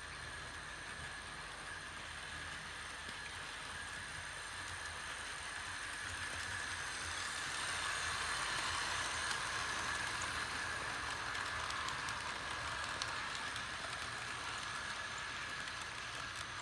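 HO scale model diesel locomotives and coaches running on the layout track: a steady whine of motors and gears with wheel noise on the rails, swelling in the middle as the train comes close and fading a little, with light clicks of wheels over the rail joints in the second half.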